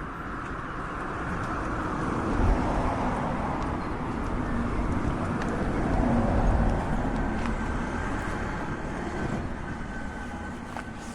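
A vehicle going past outdoors: a steady rumbling noise that builds over a few seconds, is loudest around the middle, and then fades away.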